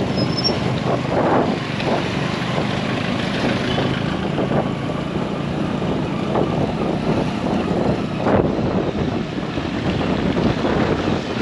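Wind buffeting the microphone over a steady rumble of road traffic, with irregular gusts and one sharper buffet near the end.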